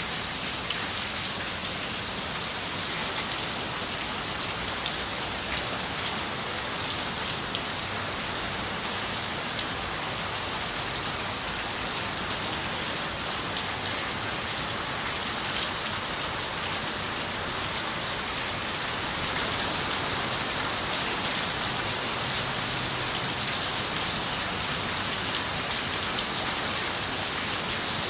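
Steady rain on a window, with scattered sharper drop ticks against the even hiss. It grows a little louder about two-thirds of the way in.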